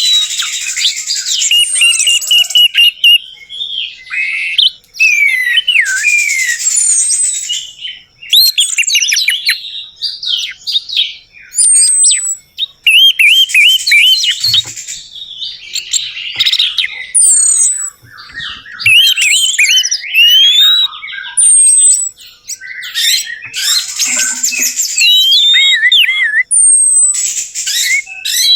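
Orange-headed thrush singing a long, varied song of rapid whistled and chattering phrases, broken by short pauses every few seconds.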